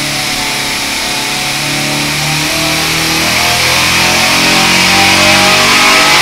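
Turbocharged 2387cc air-cooled VW flat-four on an engine dyno, pulling at full throttle under load as it climbs from about 4,400 to 5,800 rpm, rising in pitch and getting steadily louder, with a growing turbo hiss over the engine note.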